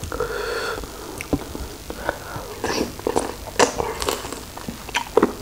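Close-miked eating of raw shrimp: wet chewing with a quick, irregular string of mouth clicks and smacks.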